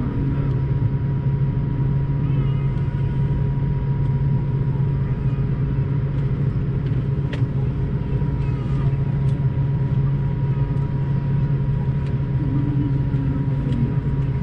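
Steady low hum of an Airbus A220-300's cabin, with a thin constant tone above it.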